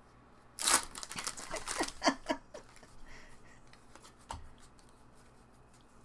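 A foil trading-card pack wrapper being torn open and crinkled: a quick run of ripping and rustling in the first couple of seconds, then one light knock a little past the middle.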